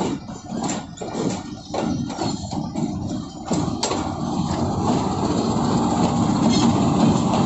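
Train wheels running over rail joints and points: irregular clanks and knocks, then from about three and a half seconds in a steady rumble of wheels on track that grows louder.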